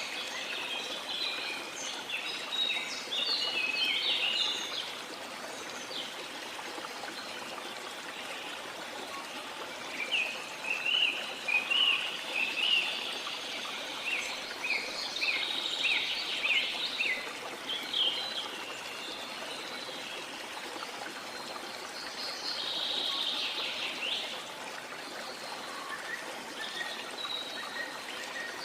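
River water flowing steadily, with birds chirping over it in bursts that come and go.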